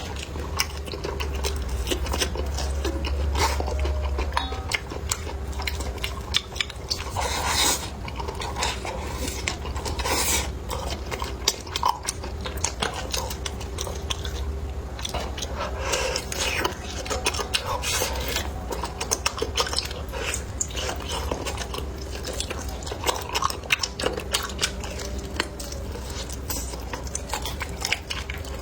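Close-up eating sounds: chopsticks and cutlery clicking against dishes, with chewing and occasional louder crunchy bites, over a low steady hum.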